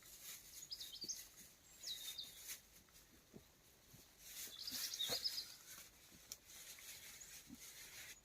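Small songbirds chirping in short high phrases, three or four times, over faint light knocks and rustling.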